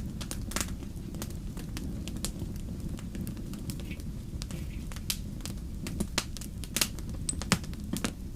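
Wood campfire crackling, with irregular sharp pops and snaps, a few louder ones in the second half, over a steady low rumble.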